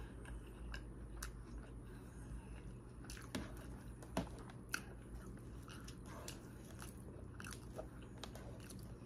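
Chewing a mouthful of salad, with scattered soft crunches and small clicks, and fingers picking through the leafy greens.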